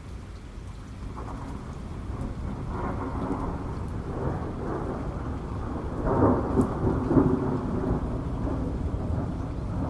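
Thunder rumbling over steady rain. The rumble builds from about a second in and is loudest around six to seven seconds in.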